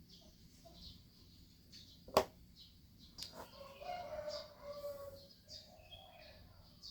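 Birds chirping faintly with a longer wavering call, typical of a chicken, in the background; a single sharp knock about two seconds in is the loudest sound, with a lighter click a second later.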